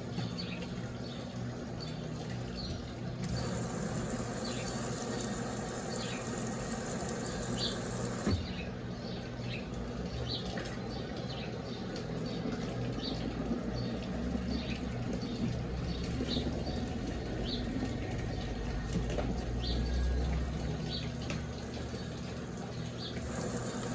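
Brastemp Eggo 1 kg mini washing machine (BWI01) draining: its drain pump hums steadily while water runs out.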